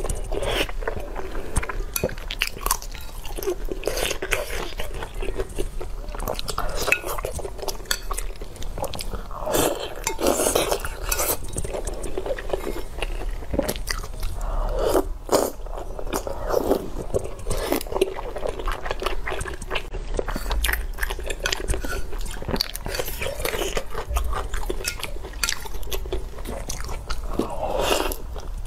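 A person chewing and sucking on pieces of braised meat in a sticky sauce, with many wet mouth clicks, smacks and slurps.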